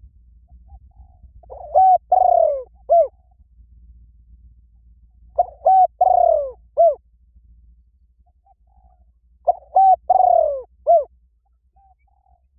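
A dove cooing: three identical phrases about four seconds apart, each two short hooked notes, a longer falling coo and a short closing note.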